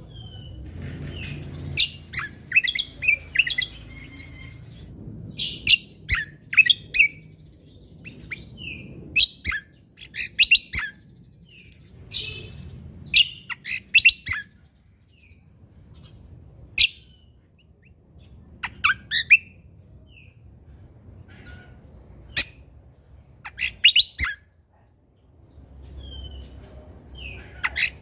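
Cucak kombo (kecial kombok) songbird singing in short bursts of rapid, sharp chirping notes with brief pauses between phrases, over a faint low background rumble.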